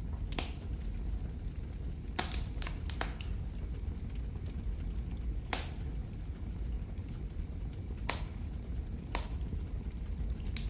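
Wood fire in a fireplace crackling, with sharp pops at irregular intervals, about eight in all, over a steady low rumble of the burning.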